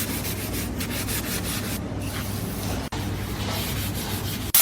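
Quick back-and-forth rubbing strokes, like sanding or scuffing, several a second, over a steady low hum. The sound briefly cuts out about three seconds in.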